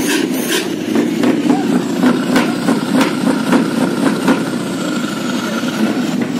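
Truck engines running, with a steady high tone through the middle and scattered sharp clicks, amid people's voices.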